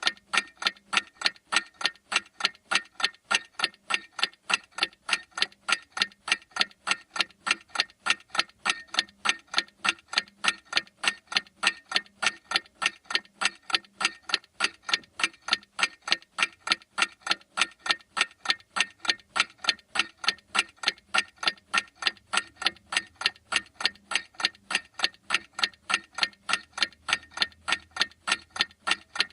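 Clock ticking steadily: a long run of sharp, evenly spaced ticks, several a second.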